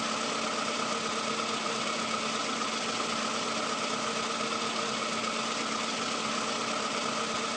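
An engine running steadily at idle, with an unchanging hum through it.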